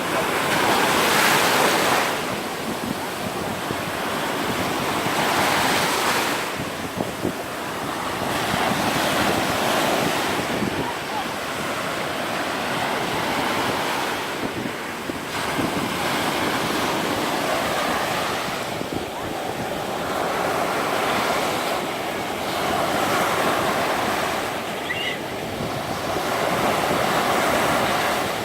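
Black Sea surf breaking on a sandy beach, each wave swelling and washing in every four to five seconds, with wind buffeting the microphone.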